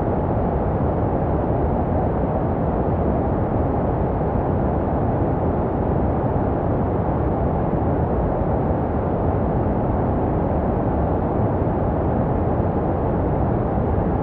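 Baby sleep white noise: a steady, deep hiss with its energy low down and the highs rolled off, made to resemble the sound a baby hears inside the womb.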